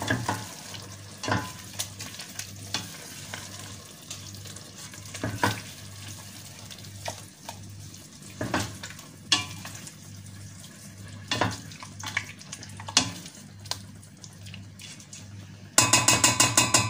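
Chicken and chicken liver frying with a light sizzle in a stainless steel pot as a utensil stirs them, with scattered clinks and scrapes of the utensil against the pot. Near the end comes a fast rattle of about ten metal strikes on the pot in about a second.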